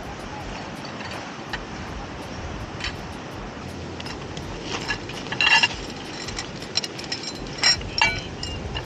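Tableware clinking and clattering a few times, loudest about five and a half seconds in and again near the end, over a steady background hiss.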